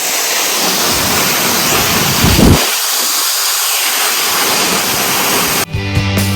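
Steady loud rush of a waterfall's falling water, with one dull thump about two and a half seconds in. Near the end it cuts off suddenly and rock background music begins.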